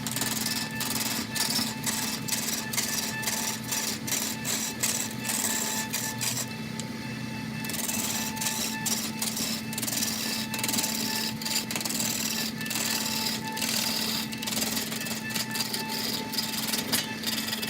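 Woodworking machine running with a steady hum while a cutting tool works the wood in dense, irregular clicks and scrapes. The cutting stops for about a second roughly six and a half seconds in.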